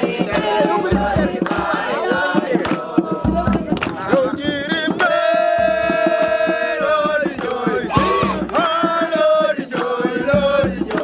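A group of young voices singing a campfire chant together over a steady percussive beat, with one long held note about five to seven seconds in.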